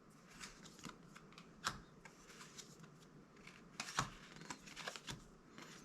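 Magic: The Gathering trading cards being handled and flipped through: faint, scattered card slides and flicks with a few sharper clicks.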